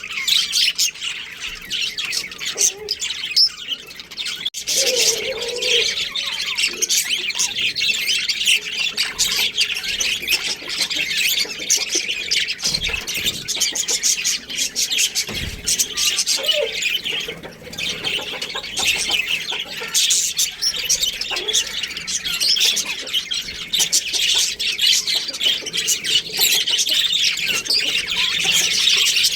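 A flock of small birds chirping and chattering continuously in many overlapping high calls, with a few short lower calls now and then.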